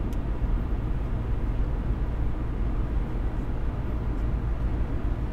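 Steady road noise of a moving car: an even low rumble of tyres and engine.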